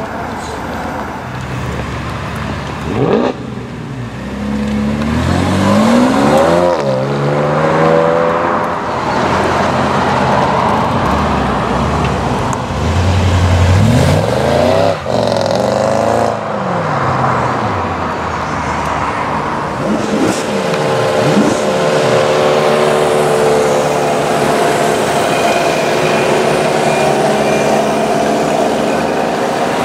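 Sports cars driving off one after another, engines revving and rising in pitch as they accelerate past. A Jaguar XK8's V8 pulls away in the first seconds, and a C4 Corvette's V8 passes about halfway through. Near the end there is a steadier, higher engine tone as two mopeds ride by.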